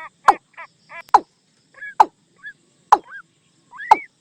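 Watercock calls used as a decoy call: sharp, sweeping calls repeated about once a second, with shorter quick notes in between during the first second and small rising notes after the later calls.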